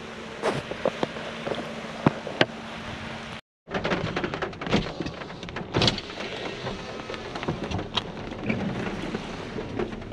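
Steady rain, with frequent sharp taps of drops striking close by. The sound drops out completely for a moment about three and a half seconds in.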